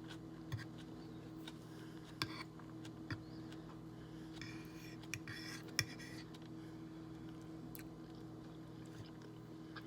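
Faint eating sounds: a few sharp clicks of cutlery against a plate, with chewing, over a steady low hum.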